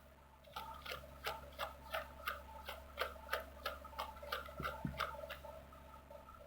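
A run of short, sharp clicks or ticks, about three or four a second, over a faint steady hum.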